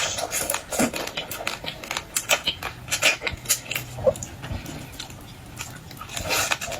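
Close-up eating sounds of boiled seafood: irregular crunching bites, crackly clicks and wet chewing.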